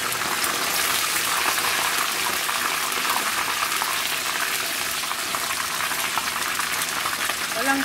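Chicken pieces frying in hot oil in a pan: a steady sizzle full of fine crackling pops.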